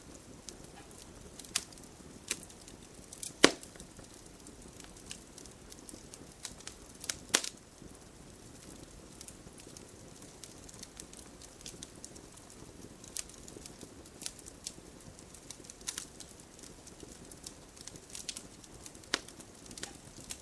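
Wood campfire burning with a soft steady hiss and irregular crackles and pops, two sharper snaps about three and a half and seven seconds in.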